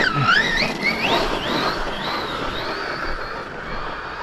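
Electric RC monster truck's brushless motor whining as it drives. The pitch swoops up and down with the throttle in the first couple of seconds, then holds as a steadier high whine that slowly fades.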